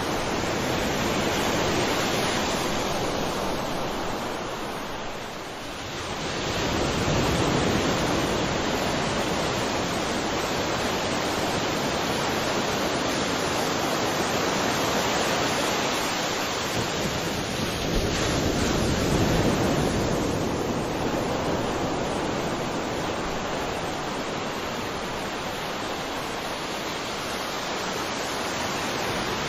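Sea waves washing onto a shore: a steady rush of surf that eases off about five seconds in, then swells as a wave comes in, and swells again a little before the twenty-second mark.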